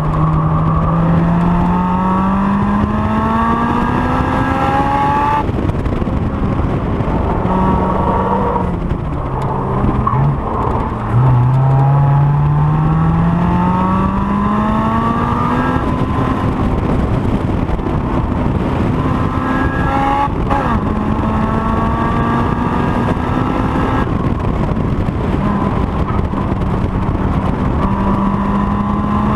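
Honda S2000's inline-four engine at full throttle on track. It climbs in pitch through the revs, drops at each gear change, and briefly falls with quick blips about ten seconds in as the car brakes and downshifts.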